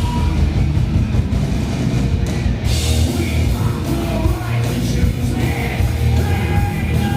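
Live rock band playing loudly with heavy drums and distorted guitar, a cymbal crash about three seconds in.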